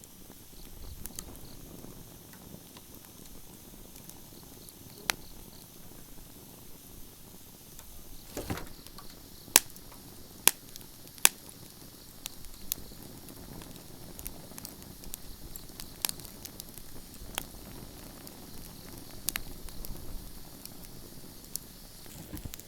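Wood bonfire crackling: scattered sharp pops and snaps over a low steady rustle, with three loud snaps in quick succession about ten seconds in.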